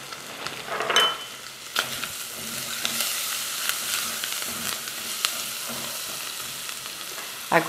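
Chopped bacon, sausage and onion sizzling as they fry in a stainless-steel pot, stirred with a silicone spatula, with a few sharp clicks of the spatula against the pot.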